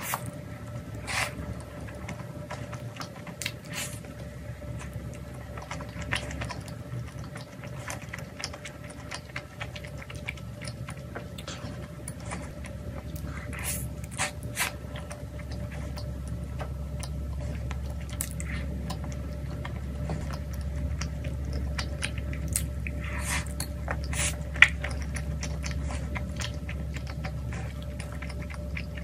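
Close-miked biting and chewing of potato pizza, with scattered sharp crunchy bites and mouth sounds over a faint steady hum.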